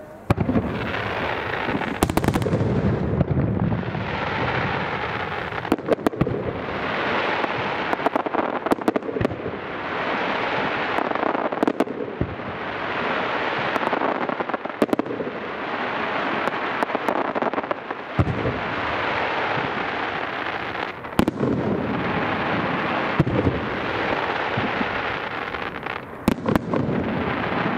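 Aerial fireworks display: a dense, unbroken barrage of shell bursts and crackling that begins suddenly, with sharp bangs standing out every second or two over swelling, echoing booms.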